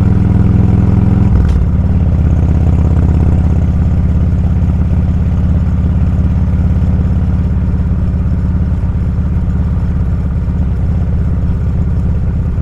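Motorcycle engine running at a steady road speed, heard from on the bike. About a second and a half in there is a brief click and the engine note drops to a lower pitch, then holds steady.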